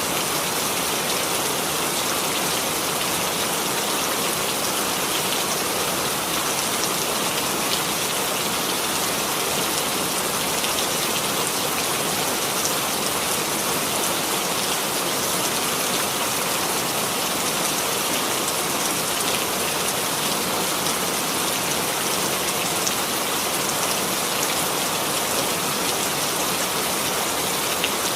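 Steady rain falling on a surface, an even hiss of many raindrops with faint scattered drop ticks and no change in strength.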